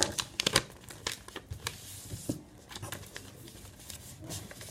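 A sheet of paper being folded and creased by hand: quick crackles and crinkles, thickest in the first second, then lighter rustling.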